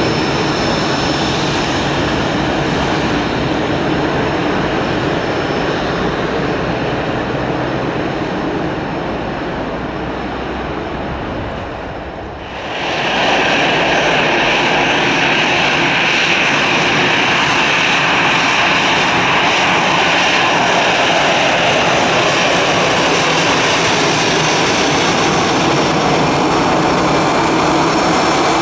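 Airbus airliners' jet engines running at taxi power: a steady rumble with a whine. About halfway through, the sound cuts to a second, louder airliner with a strong high-pitched whine.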